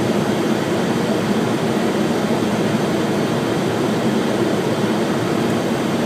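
Steady rushing cockpit noise of a Boeing 737-800 on final approach, gear and flaps down: airflow and air conditioning, even throughout.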